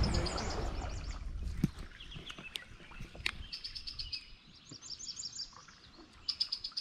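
A songbird singing bursts of rapid, high-pitched notes, the clearest about five seconds in and again near the end. Wind noise on the microphone fades out over the first second or two, and a few faint clicks come in between.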